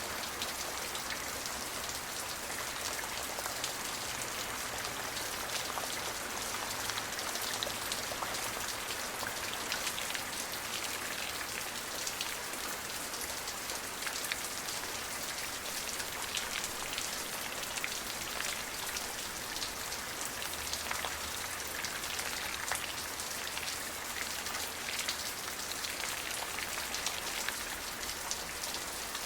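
Steady rain falling, with many close drops pattering on a surface over an even hiss.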